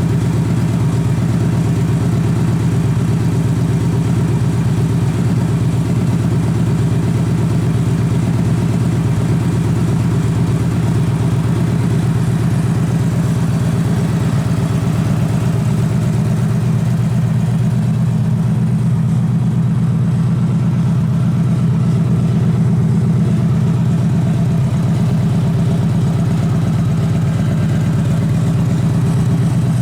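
2014 Victory Cross Country's Freedom 106 V-twin engine idling steadily through a Victory performance exhaust, a loud, even, pulsing low note.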